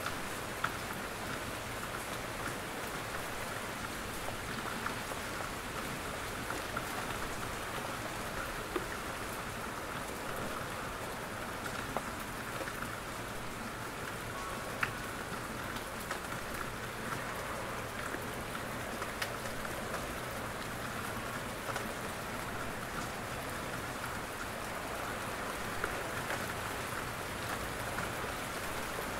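Steady rain falling in a forest, a constant hiss with scattered sharper drips of drops falling from the trees.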